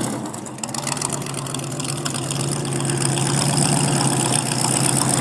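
Car engine running at a steady low idle, growing gradually louder after a brief drop near the start.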